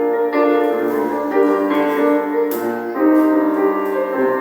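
Instrumental introduction of a worship song on keyboard, with sustained piano-like chords changing about every second and light cymbal or percussion touches.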